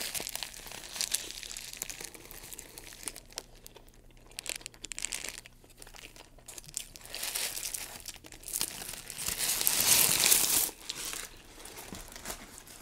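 Food packaging being handled: paper or wrapper crinkling and rustling, with small crackles and a louder stretch of rustling a little past the middle.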